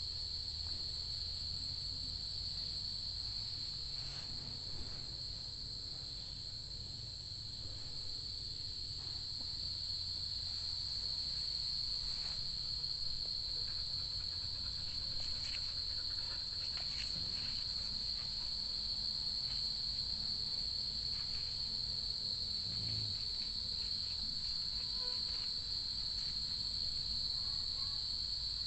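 Night insects trilling steadily in one unbroken high note, with a low rumble underneath.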